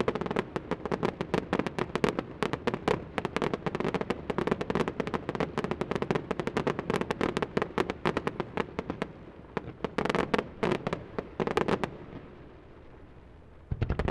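Fireworks display: a dense, rapid string of bangs and crackles for most of the time, thinning into scattered clusters after about nine seconds. A short lull follows, then a heavy boom right at the end.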